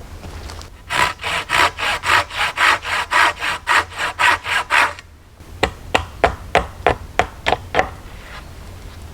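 Hand saw cutting through wood with fast, even strokes, about five a second, for some four seconds. It stops, and a string of about eight sharp knocks on wood follows.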